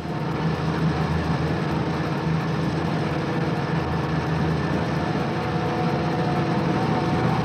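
A heavy vehicle engine running steadily at idle, used as a cartoon sound effect.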